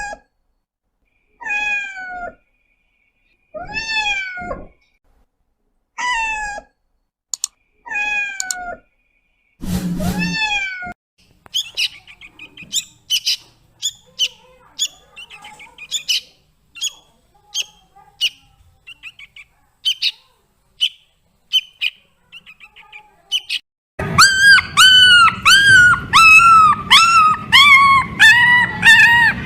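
Animal calls in three spells. First, a single call falling in pitch, repeated about every two seconds. Then a run of short high chirps. Near the end come fast, loud, repeated yelping calls.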